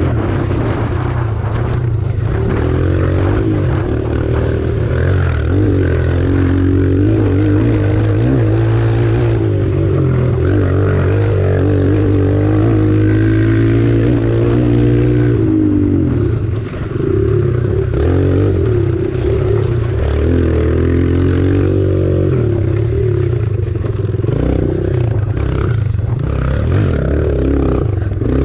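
Kawasaki KLX140 pit bike's single-cylinder four-stroke engine running hard, its pitch rising and falling again and again as the rider works the throttle and gears, over a steady low rumble, with a brief drop in level about seventeen seconds in.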